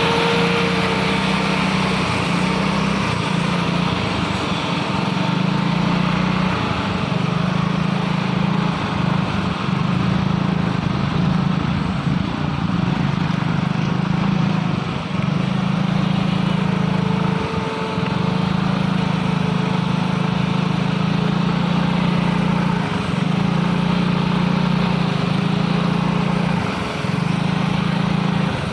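Isuzu truck's diesel engine working hard up a steep climb, running loud and steady with brief dips now and then.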